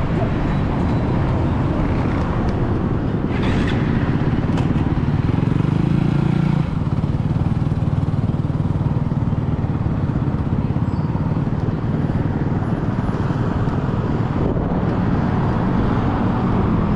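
A pack of dirt bike and ATV engines running. One engine's note climbs from about four seconds in and drops off abruptly at six and a half seconds.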